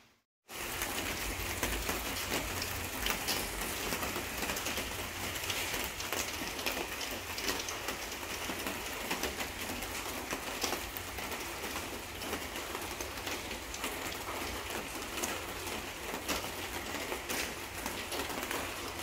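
Steady rain falling: a dense hiss made up of many small drop impacts, coming in abruptly just after the start and holding level throughout.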